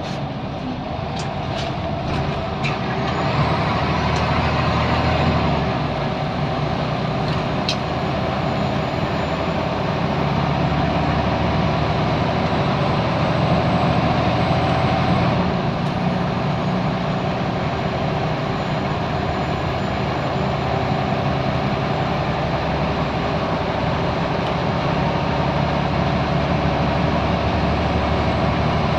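Scania L94UB Wright Solar single-deck bus, its 9-litre five-cylinder diesel running steadily under way. The engine gets louder about three to four seconds in, then holds, with a few sharp clicks in the first seconds.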